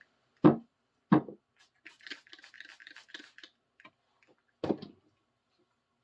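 Trigger spray bottle of Windex squirted twice in quick succession, then soft rustling of the wrench being wiped with a cloth, and one more squirt near the end.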